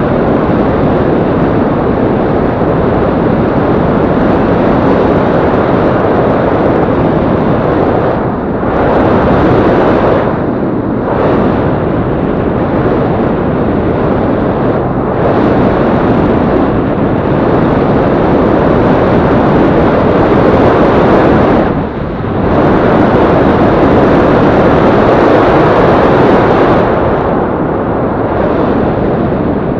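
Steady rush of wind and engine noise on the microphone of a Yamaha Crypton-X motorcycle being ridden, loud throughout and dipping briefly a few times.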